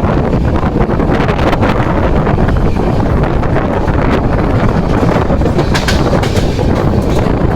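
Steady rumble of a moving Amrit Bharat Express train, with wind buffeting the microphone and a few sharp clicks, loudest about six seconds in.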